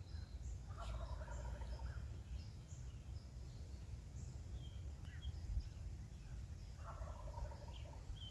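Wild turkey gobbler gobbling twice, each gobble a rattling call lasting about a second, the two about six seconds apart.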